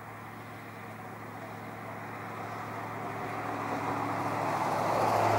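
Steady low hum of an idling car engine, left running to power the lights. Over it a rustling noise grows steadily louder.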